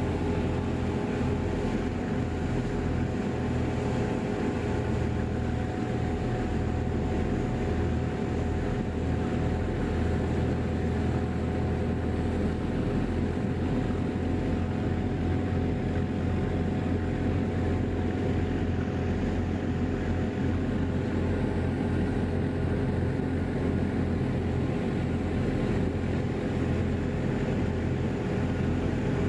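Passenger ferry's engines running with a steady, unchanging drone and hum, heard from on board.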